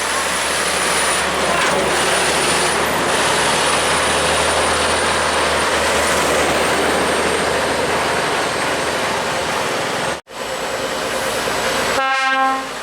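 Heavy truck noise, loud and steady, cut off suddenly about ten seconds in, then a short air-horn blast near the end.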